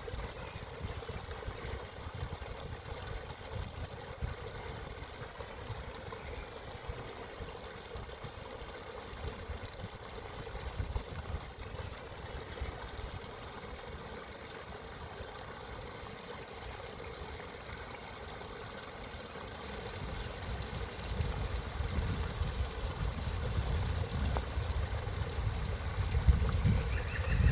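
Steady rush of flowing water, with a low rumble that grows louder over the last several seconds.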